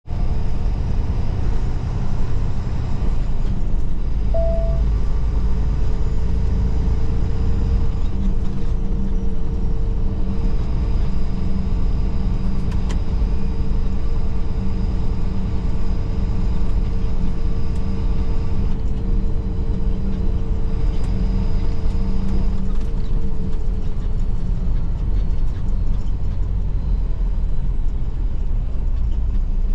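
Semi truck's diesel engine and road noise while driving, a steady low rumble, with a short beep about four seconds in.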